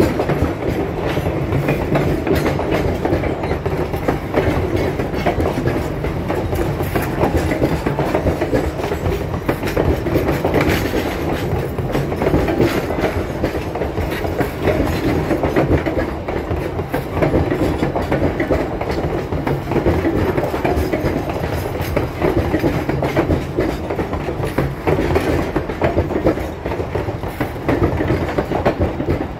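Passenger cars of the Durango & Silverton narrow-gauge steam train rolling past close by, steel wheels rumbling and clicking steadily over the rail joints.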